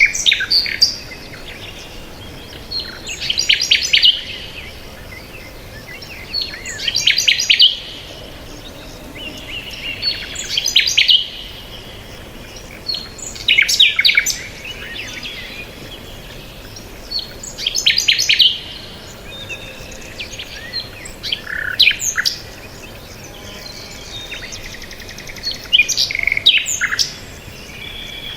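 A songbird singing a short, fast burst of high chirps about every four seconds, with a few softer chirps between the bursts.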